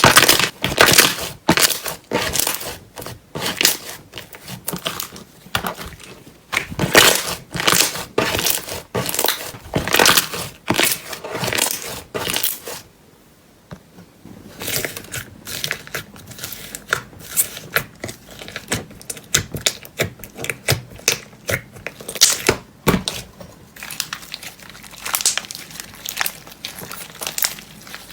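Slime being squished and pressed by hand, giving a dense run of crackling, popping clicks. There is a brief pause about halfway through.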